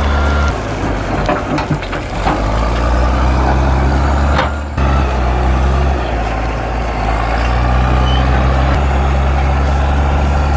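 Heavy diesel engine running steadily with a deep drone, broken briefly about four and a half seconds in.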